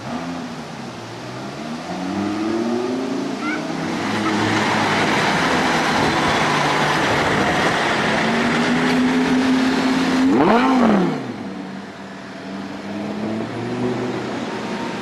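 Audi R8 V10 Spyder's V10 engine through a Milltek sport exhaust, revving. The engine note dips and climbs in the first few seconds and holds loud through the middle. Just after ten seconds a sharp rev rises and falls, then the sound eases off.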